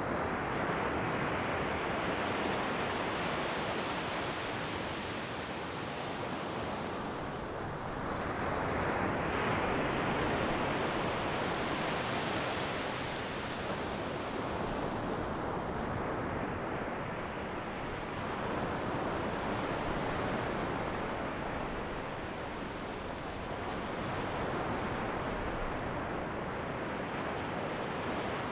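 Ocean waves washing onto the shore in slow, continuous surges, each swell rising and fading over several seconds, with a stronger wave breaking about 8 seconds in.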